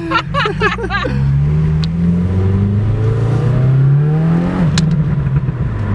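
Volkswagen 1.8 turbo engine pulling the car away, its note rising steadily for about four seconds, then dropping at a gear change with a sharp click, and running on steadily at the lower pitch.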